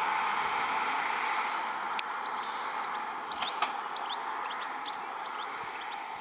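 Small birds chirping repeatedly from about halfway in, over a steady humming tone that slowly fades.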